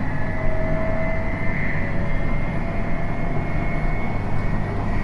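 JR East 719 series electric train running, heard from inside the passenger car: a steady traction-motor whine in two tones, rising slightly, over a continuous rumble of wheels on rail. The unit is one the uploader labels an odd-noise car.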